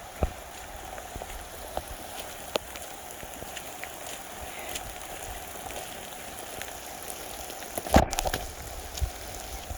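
Steady rain falling, with scattered drops tapping close by and a louder knock about eight seconds in.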